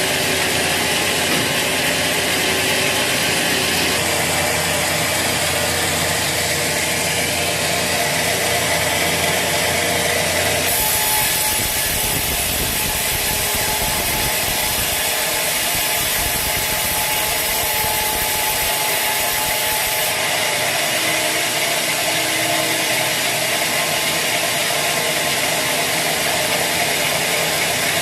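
Sawmill machinery running continuously while a saw cuts through a teak log, with a steady mechanical rattle under the cutting noise. The sound changes abruptly about 11 seconds in and again near 20 seconds.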